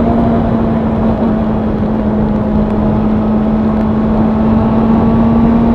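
Honda CB1000R inline-four motorcycle engine and exhaust running at a steady cruise, its note holding one pitch, with a dense rush of noise underneath.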